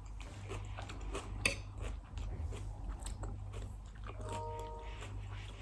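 Close-miked chewing and crunching of salad, with short sharp clicks throughout, one stronger about a second and a half in, and a short hum about four seconds in.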